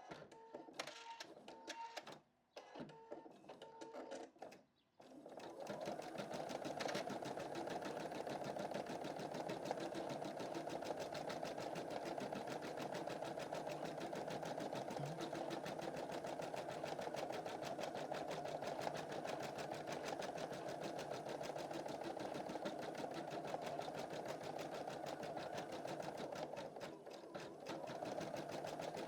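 Computerized embroidery machine stitching: a few seconds of stop-start movement with two short pauses, then a steady, rapid needle run. The run dips briefly near the end before picking up again.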